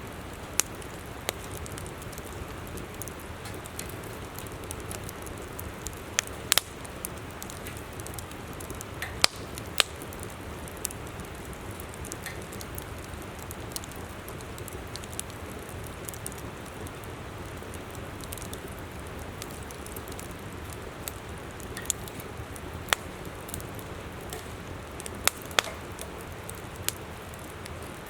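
Wood campfire crackling, with irregular sharp pops scattered through, over the steady rush of a flowing river.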